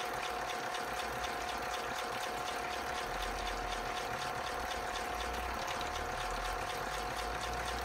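Europlay Tide Juniors Home toy washing machine running its wash cycle with water in the drum: a steady motor whine with fine regular ticking and water churning.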